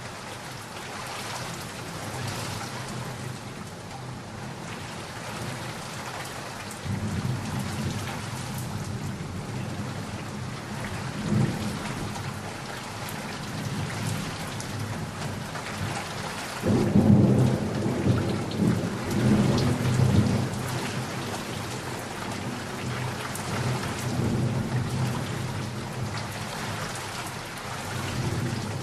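Steady rain with rolling thunder. A low rumble begins about a quarter of the way in, is loudest a little past halfway, then dies away under the rain.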